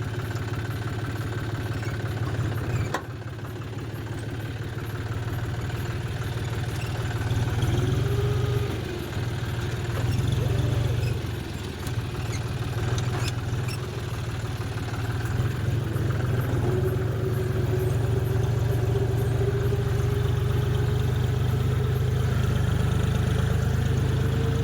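Tractor engine running steadily with a low, even pulsing, and a faint whine that rises slowly in pitch over the last several seconds.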